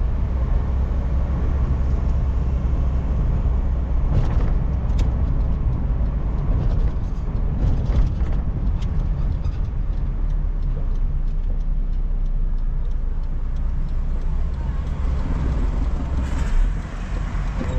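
Car engine and road noise heard inside the cabin while driving, a steady low rumble, with a brief swell of noise near the end.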